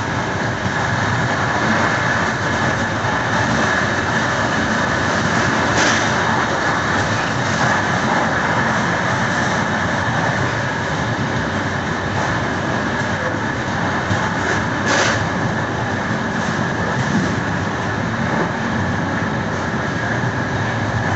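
Passenger train running steadily on the rails, heard from inside its coach: a constant running noise with a steady higher hum through it, and two brief sharper sounds about six and fifteen seconds in.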